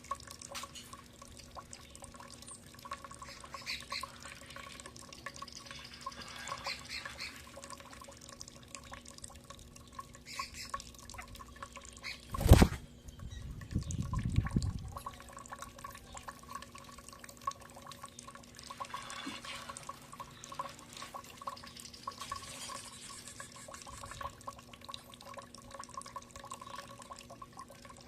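Water dripping and trickling with faint scattered splashes over a steady low hum; about halfway through, a single sharp knock, followed by a brief low rumble.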